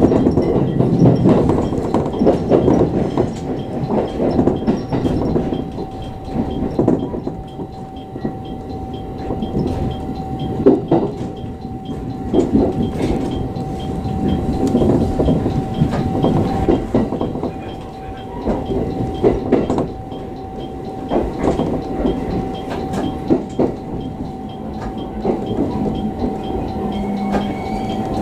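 Electric commuter train running into a station, its wheels clacking over rail joints and points over a steady rumble, with a thin steady whine throughout, heard from on board.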